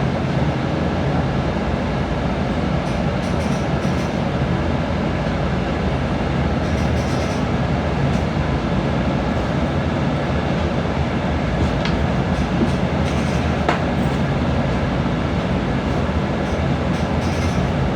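Steady rumble and hiss of a moving vehicle, with a low hum underneath and two faint clicks about two-thirds of the way through.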